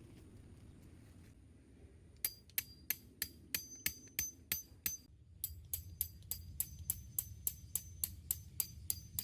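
Hammer driving a metal tent peg into the ground: a quick, steady run of ringing metal-on-metal strikes, about three a second, with a short pause about halfway.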